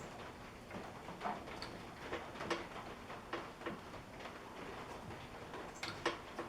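Scattered light clicks and small metal taps, about a dozen, irregularly spaced, as a measuring tool is fitted and handled against the drill press's steel post.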